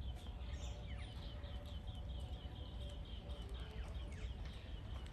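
Faint background of a bird chirping in quick, repeated high notes over a low, steady rumble.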